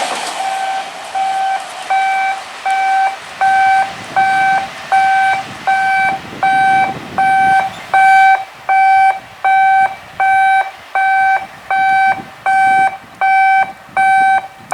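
An electronic warning beeper sounding a steady mid-pitched beep about every three-quarters of a second, some twenty times over. It starts as the noise of a passing train dies away.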